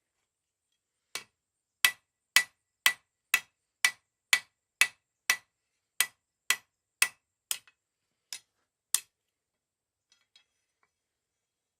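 Blacksmith's hammer striking a 1/2 inch mild steel round bar on the anvil, about fifteen blows at roughly two a second, each with a short metallic ring.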